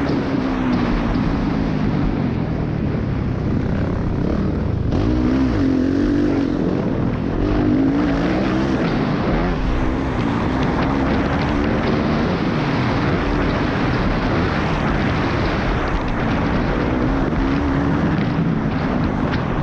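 Motocross dirt bike engine under hard riding, its revs rising and falling as the rider works the throttle.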